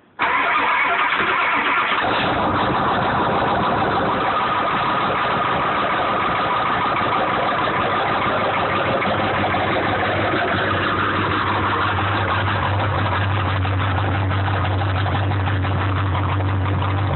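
1995 Ford F-350's 7.3-litre Powerstroke turbo-diesel V8 starting from cold after sitting unused in freezing weather, then running at a loud, steady idle. The sound changes about two seconds in as the engine catches, and a low, even hum grows stronger about ten seconds in as the idle settles.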